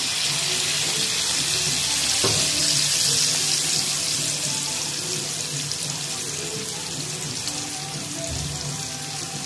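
Stir-fried vegetables (cabbage, capsicum, carrot and peas) sizzling in hot oil in a wok, just after soy sauce has been added: a steady hiss that eases off a little over the last few seconds, with one light tap about two seconds in.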